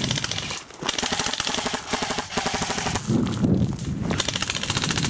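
Airsoft gun firing rapid full-auto bursts, a fast even rattle of shots with brief breaks between bursts.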